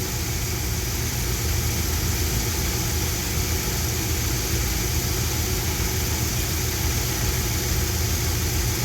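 1973 Dodge D100 pickup's engine idling steadily, heard up close: a low rumble under an even hiss.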